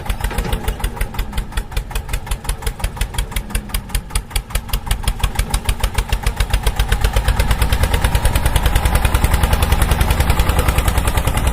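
Small engine of a homemade tractor running steadily with a rapid, even pulsing beat, getting louder around the middle and then holding.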